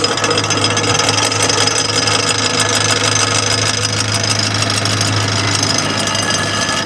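Electric rickshaw wheel turning under motor power with a continuous scraping, rubbing noise over a steady motor hum: a broken brake shoe is rubbing inside the brake drum.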